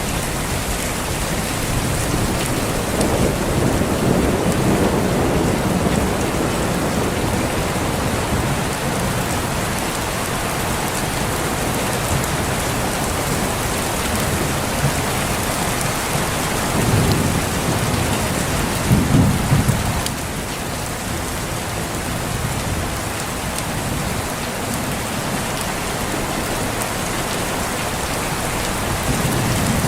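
Heavy rain falling steadily, with rolling thunder rumbling underneath: a low swell a few seconds in and a louder peal about two-thirds of the way through.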